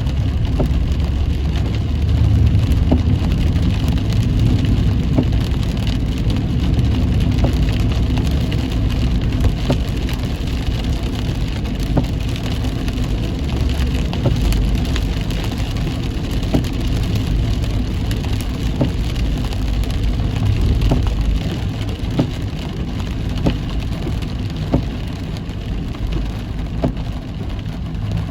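Heavy rain pattering on a moving car, with many small drop ticks over a steady low road and engine rumble.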